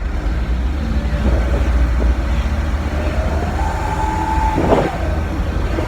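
Truck engine running through a homemade 'wolf' exhaust muffler made from a used oil filter, with a steady deep rumble. About three seconds in, a higher whine rises and holds, then breaks off with a short sharp burst near the end.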